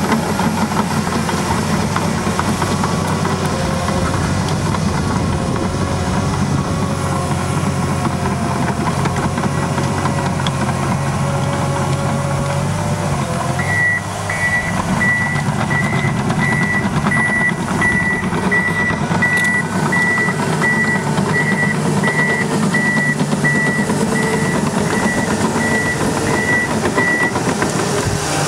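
Komatsu D61PXi-23 bulldozer's diesel engine running steadily under load. About halfway through, its reversing alarm starts beeping steadily, a little more than once a second, as the dozer backs up, stopping shortly before the end.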